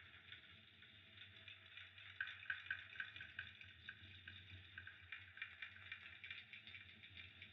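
Fireplace fire crackling faintly with small irregular pops, a brief cluster of louder pops about two to three seconds in.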